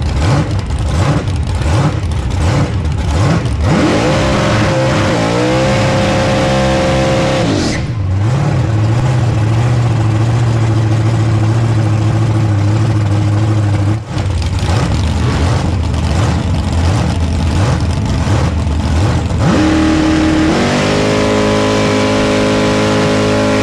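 Supercharged drag-racing pickup engine, heard from inside the cab. It is blipped several times, revved up and held high for a few seconds, then falls back to a steady idle. Near the end it is brought up again and held at a steady high rpm as the truck sits at the starting line.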